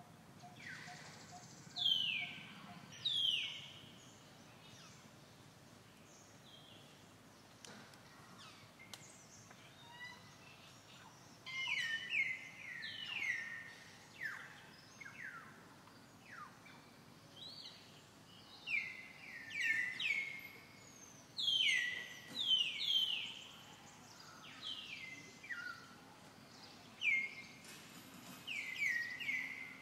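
Birds calling: short, high notes that each sweep downward in pitch, coming in quick runs of two to four, over a faint steady outdoor hiss.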